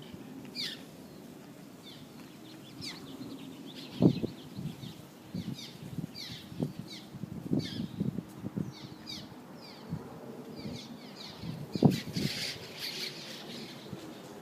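A flock of small nesting birds flying in and out: many short, falling high chirps throughout, with fluttering wingbeats that are loudest about four and twelve seconds in.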